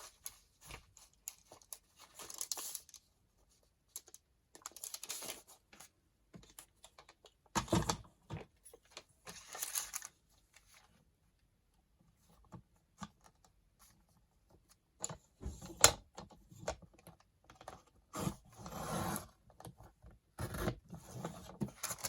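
Sheets of tea-stained paper being handled, rustled and torn in short irregular bursts with quiet gaps between, with one sharper crack about two-thirds of the way through.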